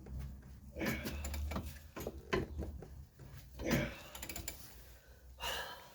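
Irregular clunks and scrapes of tools and metal parts being worked on a seized suspension shaft, with a few louder bursts.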